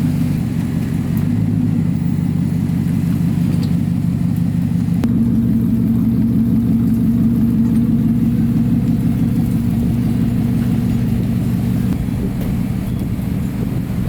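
GMC Yukon's engine and exhaust running with a steady low drone under light throttle, getting a little louder and higher about five seconds in.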